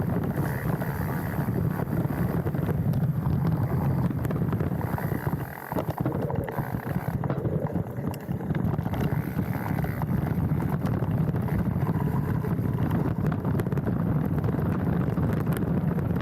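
Wind buffeting a handlebar-mounted action camera's microphone while a mountain bike rolls down a dirt trail, with constant rattle and chatter from the bike over the ground. The noise dips briefly about five and a half seconds in.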